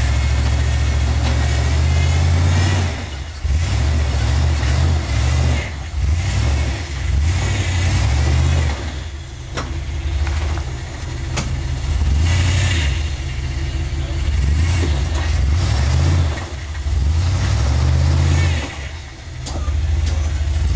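Off-road vehicle's engine revving in repeated surges, each dropping back briefly before the next, as it works its way up a rock obstacle. A couple of sharp knocks come about ten and eleven seconds in.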